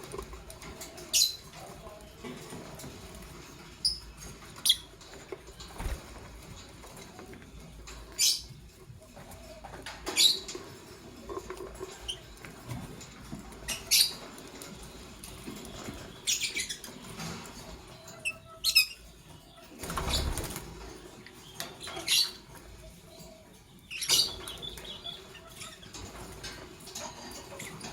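Lovebirds, a green Fischer's and a pastel blue, giving short, sharp high-pitched chirps, one every second or few, some sliding down in pitch. About twenty seconds in there is a brief, noisy rustle of movement.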